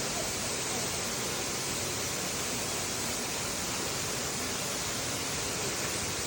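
Steady, even rushing noise with no distinct knocks, tones or changes.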